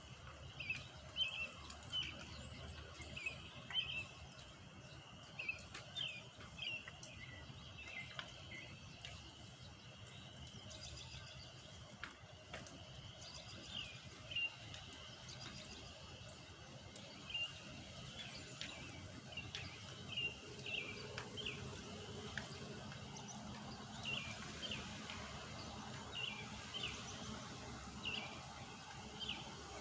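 Birds chirping: short, sharp chirps repeated a few times a second throughout, over a faint steady low rumble.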